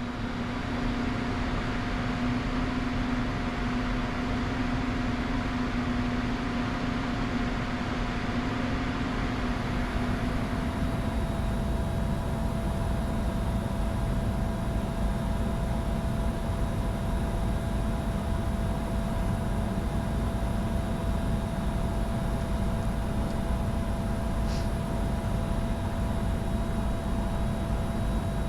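Flight-deck noise of a Bombardier Challenger 605 business jet on approach: a steady rush of airflow with a steady engine and avionics hum and a faint high whine. The rushing eases a little about ten seconds in.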